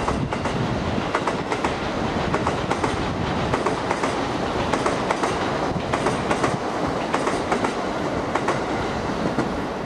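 Electric commuter train passing on the tracks below, a steady rumble with irregular clacks of wheels over rail joints and switches. It eases off slightly near the end as the train moves away.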